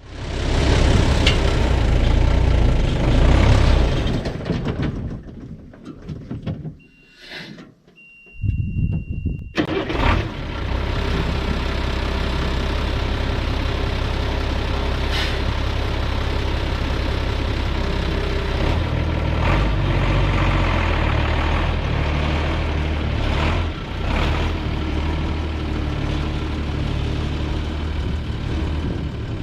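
Diesel engine of a 1983 Unimog U1700L army truck running, a loud low drone. It dies away about five seconds in, a steady high-pitched beep sounds for about two seconds, and then the engine drone comes back steadily.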